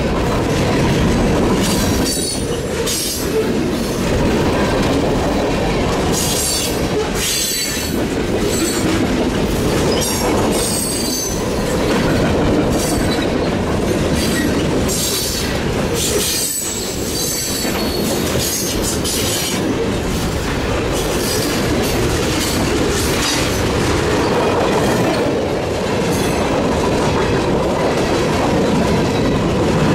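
A CN local freight train rolling past at close range: a steady rumble and clatter of steel wheels on rail, broken again and again by short high wheel squeals.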